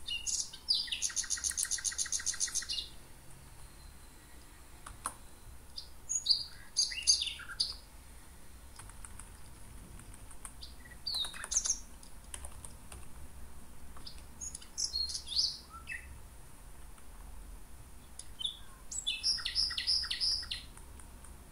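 Birds chirping in short scattered calls, with a fast trill of many evenly spaced notes near the start and a shorter trill near the end.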